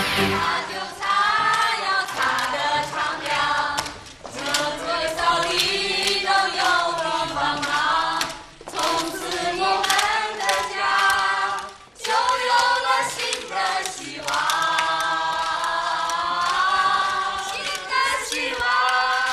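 A group of voices singing together, in phrases separated by short breaks.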